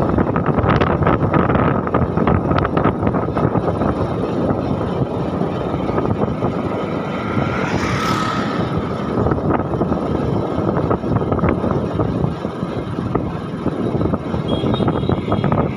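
Steady rush of wind and running noise from a moving vehicle, with scattered light clicks in the first few seconds and a brief swell about halfway.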